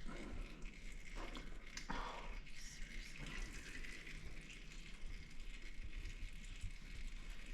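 Engine oil trickling steadily into a drain pan, with a few faint knocks in the first couple of seconds.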